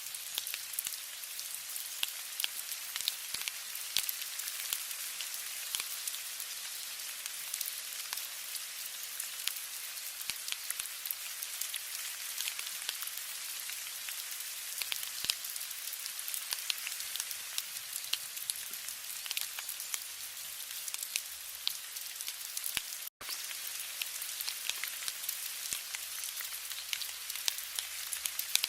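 Steady rain: an even hiss of falling rain with many separate drops ticking through it. The sound cuts out for an instant about 23 seconds in.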